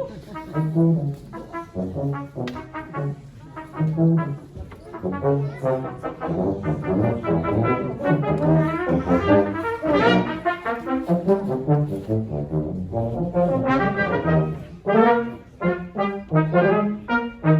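Brass quartet playing an instrumental passage, with a moving melody over low bass notes.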